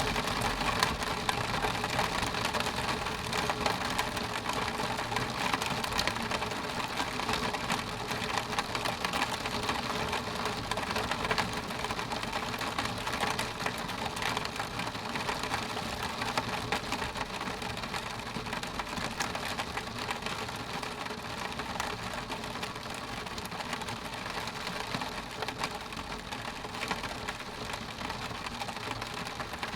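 Rain pattering on window glass: a dense, fast patter of drops over a steady hiss, easing slightly toward the end.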